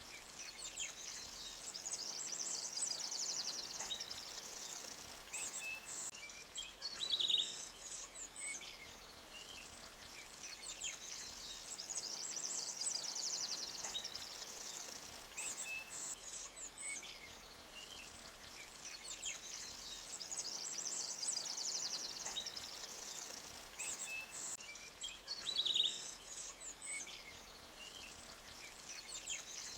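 Forest ambience: birds chirping and trilling over a faint steady stream of running water. The busy high chirping swells and fades in waves, with a louder chirp twice, about 7 seconds in and near the end.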